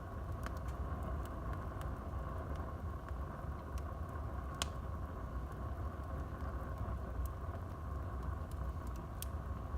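Wood fire burning in a fireplace: a steady low rumble of flames with scattered small crackles, and one sharper pop about halfway through.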